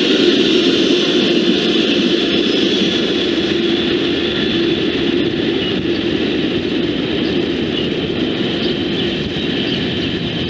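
A train passing close by: a steady, loud rolling noise of wheels on the rails, with no horn.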